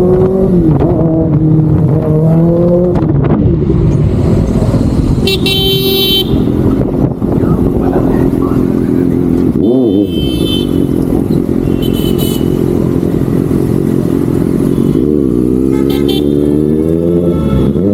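Kawasaki ZX-6R's inline-four engine running on the move, its revs dipping near the start, climbing around the middle and climbing again before dropping near the end. A few short high-pitched tones sound over it several times.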